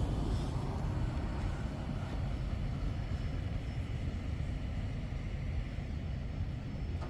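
A freight train rumbling on as it moves away after passing, a steady low rumble that has eased from just before.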